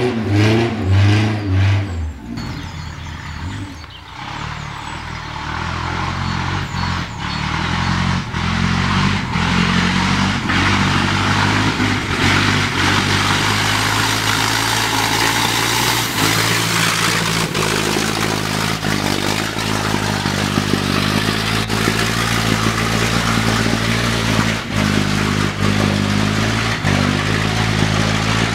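Vintage sports car engine working hard up a steep muddy trials hill. A loud, wavering engine note falls away about two seconds in, then an engine note builds over the next few seconds and holds steady.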